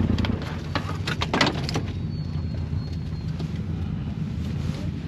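A vehicle engine running with a steady low rumble, with a cluster of sharp clicks and knocks about a second in.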